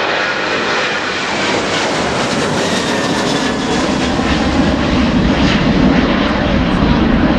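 Airliner engines passing close: a loud, steady rush of aircraft noise that grows deeper and heavier about halfway through.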